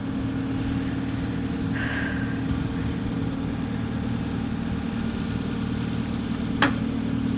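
Engine of a lifting machine running steadily at idle, with a brief squeak about two seconds in and a sharp metallic click near the end.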